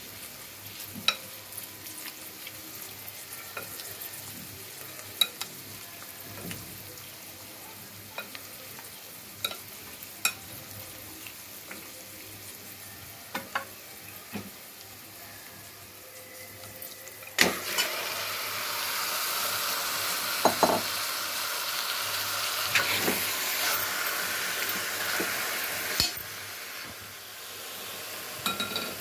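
Sliced onions, green chillies and whole spices frying in oil in an aluminium pressure cooker, with a steady sizzle and occasional clicks of a spatula stirring against the pan. About two-thirds of the way in there is a sharp knock and the sizzle grows much louder as the marinated mutton chops go into the hot oil, then eases off near the end.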